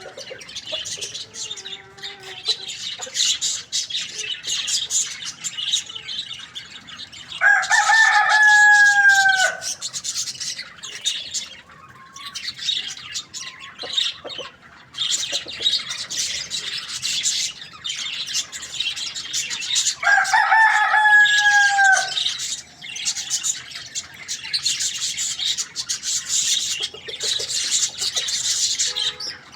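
A rooster crowing twice, each crow about two seconds long and ending in a falling pitch, over continuous chirping of many small birds.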